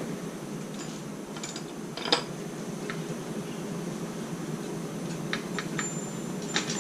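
Metal tools and parts clicking and clinking as a motorcycle front wheel is refitted: one sharp knock about two seconds in, then a run of small clicks with a brief metallic ring near the end, over a steady low hum.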